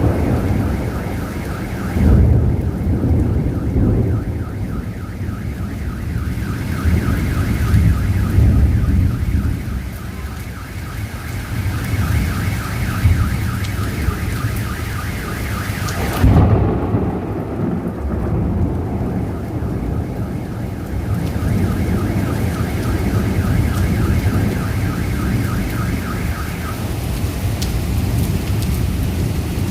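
Heavy rain with rumbling thunder and a sharp thunderclap about halfway through. A car alarm's fast pulsing tone sounds over the storm and stops a few seconds before the end.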